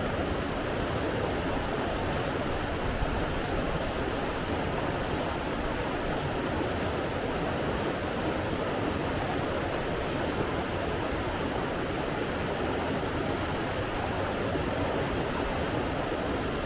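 Flowing water making a steady, even rush with no pauses or swells.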